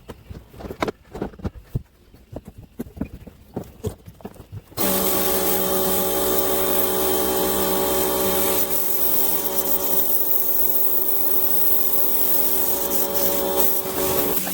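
Irregular scraping and knocking, like scrubbing. About five seconds in, a pressure washer starts abruptly and runs steadily with a constant hum and hiss.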